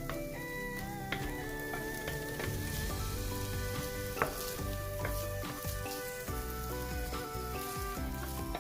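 Food sizzling as it fries in a pan, with a couple of sharp clicks about a second and about four seconds in, over background music.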